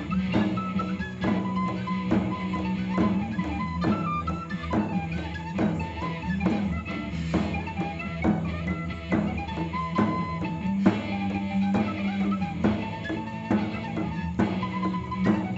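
Live rock band playing an instrumental passage without vocals: a steady drum beat under a held low bass note, with a melody line over the top.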